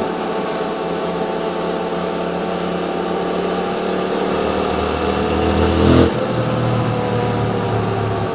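QJ Motors SVT650X motorcycle engine running through an Arrow Racetech slip-on exhaust. Revs build from about four seconds in to a loud peak near six seconds, then the throttle snaps shut and the engine drops back to a steadier note.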